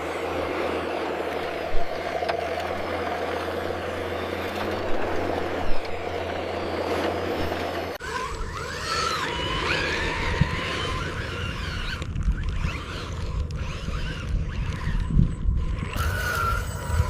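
Radio-controlled construction machine models working. A steady engine-like drone with a couple of sharp clicks runs for about half the time. It then gives way to a low rumble with high sliding, squeal-like tones above it.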